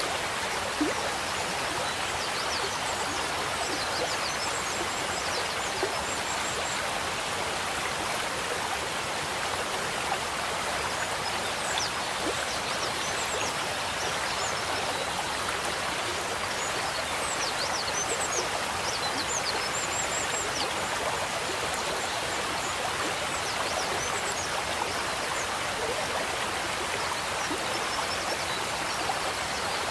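Water running steadily in a koi pond, an even rush of flowing water. Faint short high chirps come and go above it.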